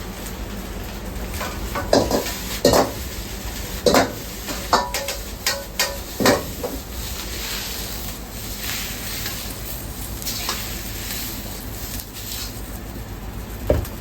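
Restaurant kitchen cooking: metal cookware clanks and knocks in a quick run through the first half, with one more near the end. Under them is a steady hiss of sizzling and frying.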